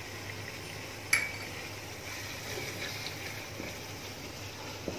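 Spiced onion-tomato masala sizzling in oil in a wok as it is stirred with a wooden spatula, a steady hiss. One sharp click about a second in.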